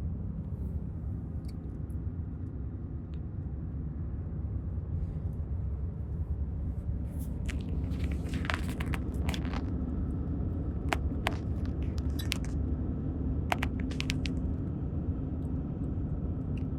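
Steady low road and engine rumble from inside a car driving at road speed, with a few light clicks and taps partway through.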